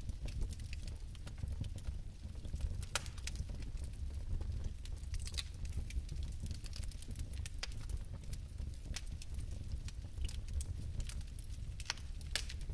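Fireplace fire crackling: irregular sharp pops and snaps, several a second at times, over a steady low rumble of the flames.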